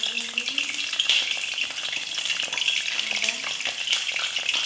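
Chicken frying in hot oil in a wok, a steady sizzle with small spattering crackles, while a metal spatula stirs and scrapes the pieces around the pan.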